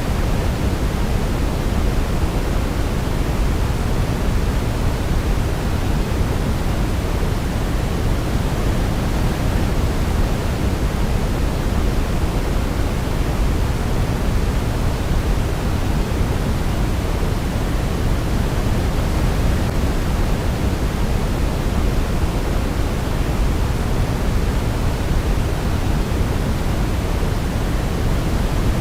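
Steady, unchanging noise for baby sleep: an even hiss weighted toward the low end, like pink noise, with no melody standing out.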